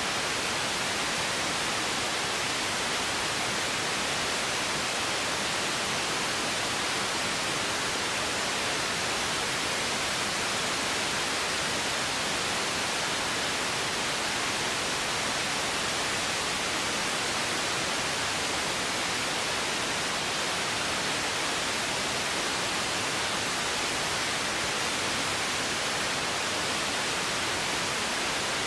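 Steady, even hiss of noise like static, unchanging in level, with no tones or separate events.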